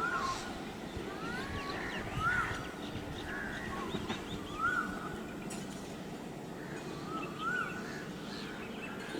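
Birds calling: one repeats a short call that rises and falls, about every two to three seconds, with fainter chirps from others around it, over a steady background hum.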